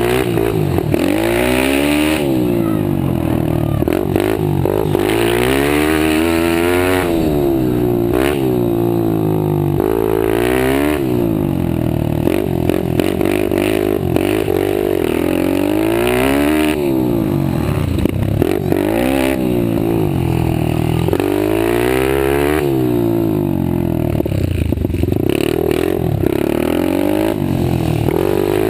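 Several pit bike engines racing, their pitch rising and falling every second or two as the throttle opens and closes, with the engine notes overlapping.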